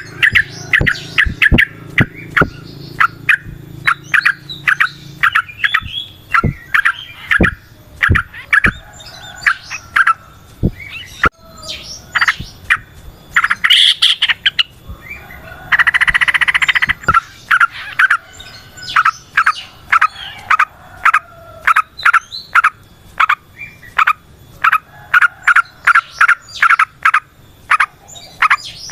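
Yellow-vented bulbul song: long runs of rapid, bubbling chattering notes, with a harsher buzzy chatter about halfway through.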